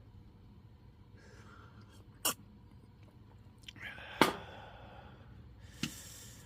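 Three sharp, light clicks or knocks about two seconds apart, with soft rustling between them, as of handling things at a camp.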